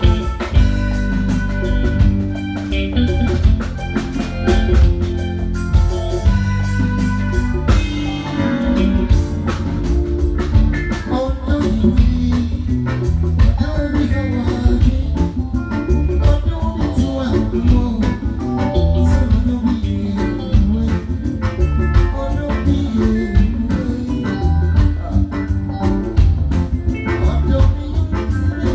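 A live band playing with drum kit, bass and guitar, with some singing, loud and steady.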